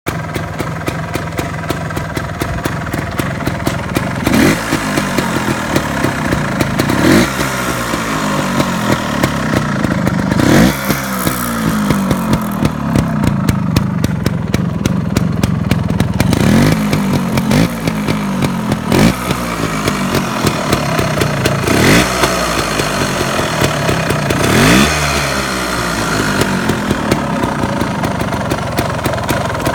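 Honda TLM220R trials motorcycle's single-cylinder two-stroke engine idling with a fast even beat, blipped by hand about eight times in quick revs that rise and fall back to idle.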